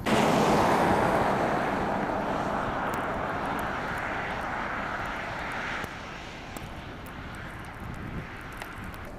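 A vehicle passing on a snowy road: a loud rush of engine and tyre noise that starts abruptly and fades away over about six seconds, leaving a lower steady background noise.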